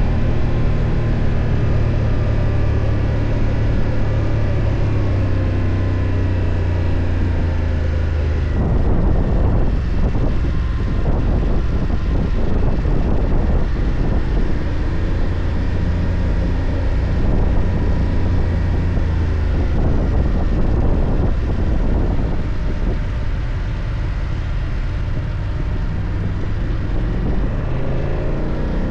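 BMW F 800 GS parallel-twin engine running on the move, its pitch rising and falling with the throttle, with a rougher, gusty stretch through the middle of the ride.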